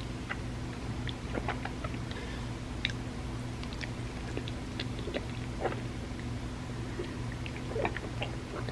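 Close-miked eating sounds: soft, wet mouth clicks and smacks at irregular intervals while eating creamy rice pudding, over a steady low hum.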